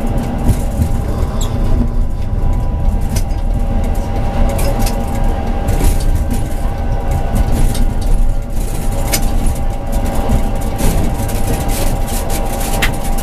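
Tram running along the track: a steady low rumble with a constant whine, and scattered clicks and knocks from the wheels and running gear.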